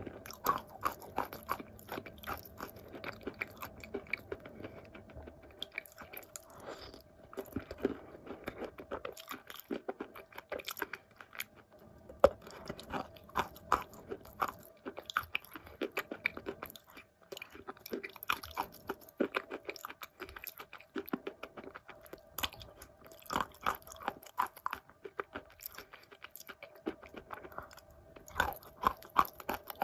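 Close-up chewing of wet blue Uzbek clay: a soft crunch on each bite, with many short crisp crackles in clusters and brief pauses between mouthfuls. A faint steady hum runs underneath.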